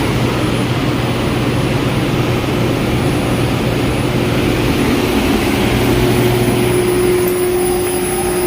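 Refrigerated display case running, its fan blowing a strong, steady rush of air over a constant low hum from the unit. The air is blowing out hard, a sign that the case is cooling properly.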